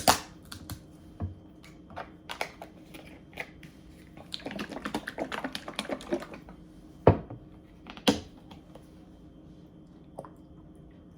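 Kitchen handling noises as sub dressing is measured out of a plastic bottle with a spoon into a bowl: scattered light clicks and taps, a quick run of small clicks in the middle, then two sharper knocks a second apart.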